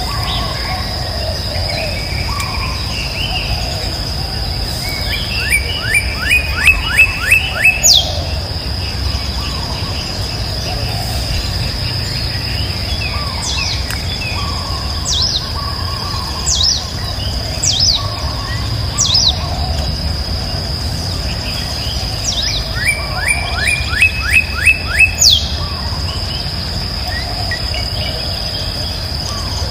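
A bird sings a fast run of about seven sharp, falling notes, twice, with single chirps in between, over a steady high-pitched insect drone.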